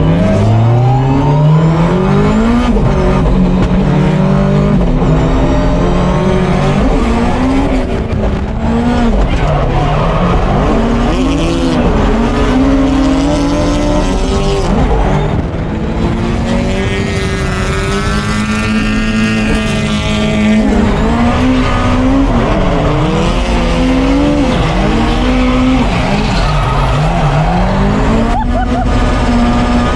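Drift car engine revving hard under load, its pitch climbing and dropping over and over as the throttle is worked and gears change, with tyre squeal and skidding noise underneath.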